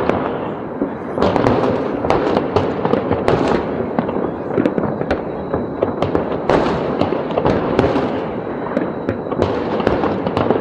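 Large fireworks display: a continuous barrage of sharp bangs and dense crackling, many explosions a second.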